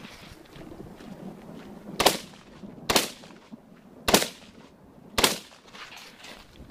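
Four rifle shots about a second apart, each sharp with a short echoing tail.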